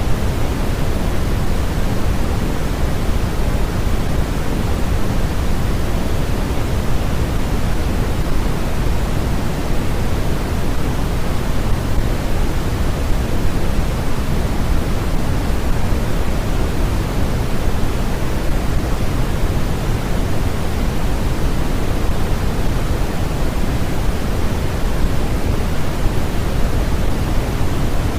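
Steady, unchanging generated white-noise hiss, heaviest in the low end and thinning toward the top, so closer to pink noise than to flat white noise.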